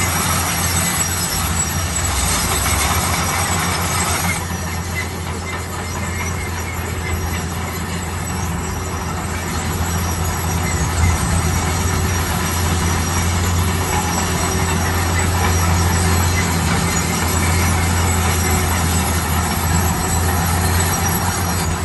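Heavy construction machine's diesel engine running steadily with a deep hum, and a high-pitched hiss and squeal that cuts off about four seconds in.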